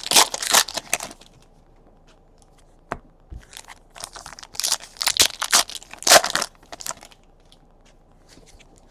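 Foil trading-card pack wrappers being torn open and crinkled. The crackling comes in two spells: one in the first second and another from about three and a half to seven seconds in.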